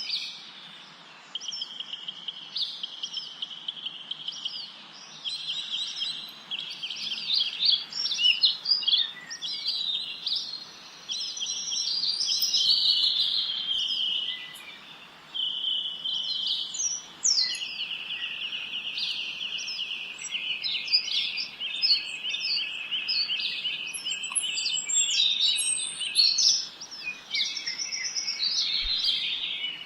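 Several songbirds singing at once. Fast trills are held for a few seconds at a time, with short chirps and whistles over them, above a faint steady background hiss.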